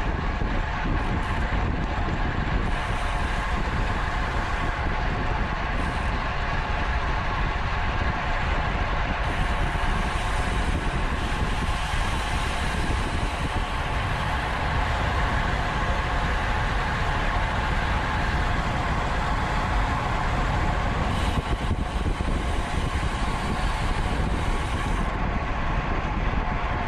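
Steady rush of wind on the microphone of a camera riding on a racing bicycle at speed, with a continuous whir from the tyres and drivetrain.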